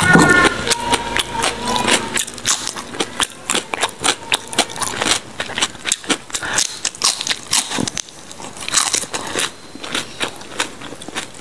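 Close-miked biting and chewing of raw leafy lalapan vegetables: a steady run of sharp, wet crunches and crackles at an irregular pace.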